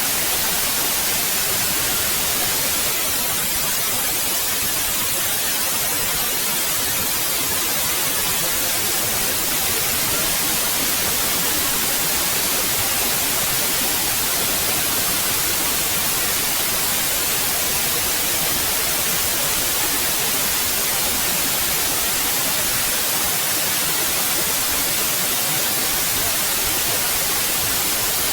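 Steady synthetic white noise: an even, unchanging hiss, brightest in the high end.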